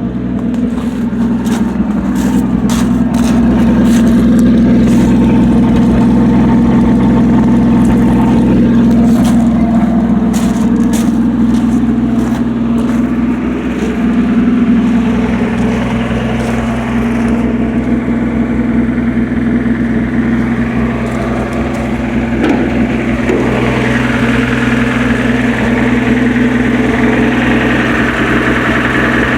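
1966 Chevy C10's 250 inline-six engine idling steadily, with scattered light clicks over roughly the first half.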